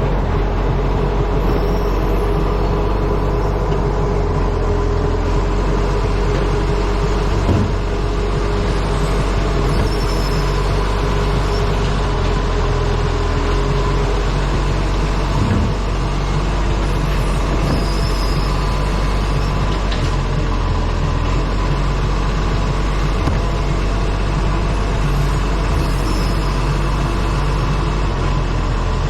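Wind noise buffeting a camera microphone strapped to the front of an ACCO truck, over the truck's steady low engine rumble and road noise while driving.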